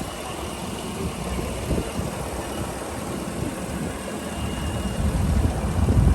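2018 Chevrolet Suburban's V8 engine idling, heard with the hood open; the low rumble grows louder near the end.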